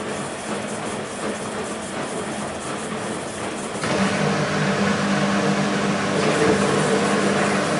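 BEKO WMB 51441 washing machine running mid-cycle. About four seconds in, water starts rushing through it with a steady hum, louder than before.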